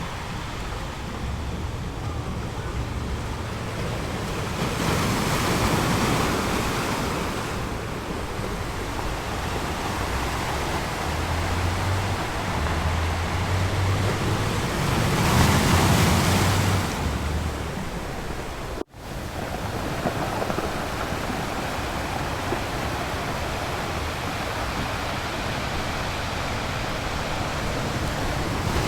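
Ocean waves washing in as a continuous rushing surf, with two louder waves surging about five and fifteen seconds in. The sound cuts out for an instant about two-thirds of the way through.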